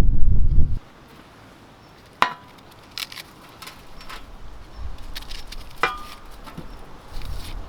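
Chopping strokes on wood: two sharp knocks about three and a half seconds apart, each with a brief ringing, and a few lighter taps between them. A low wind rumble on the microphone in the first second.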